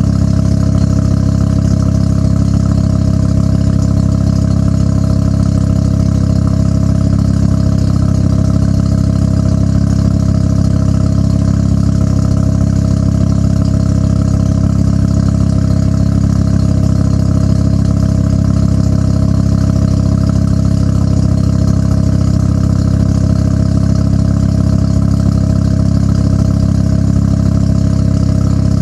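1993 Mazda RX-7's twin-turbo rotary engine idling steadily through an HKS Hi-Power exhaust, with an even, unchanging note and no revving.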